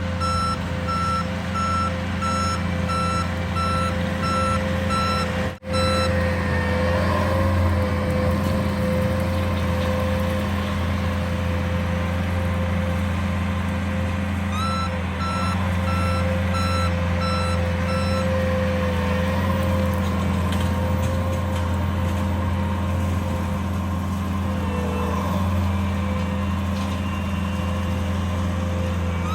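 A grass-cutting machine's engine running steadily, with its reversing alarm beeping in an even series during the first several seconds and again for a few seconds about halfway through.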